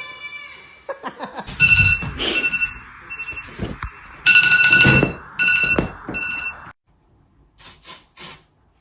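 An electronic ringing tone, two steady high pitches beeping on and off in uneven pulses, mixed with clicks and thumps, which cuts off suddenly; then three short hisses follow.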